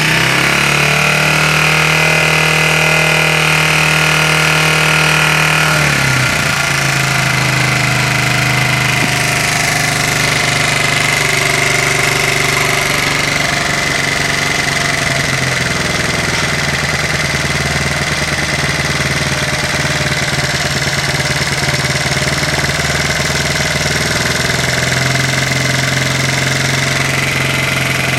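Honda C70's single-cylinder four-stroke engine running at a fixed throttle. About six seconds in, its speed drops and it stays lower, then picks up again near the end: the slowdown is what happens when the plasma ignition system is switched off, and the steadier, faster running is what happens when it is switched on.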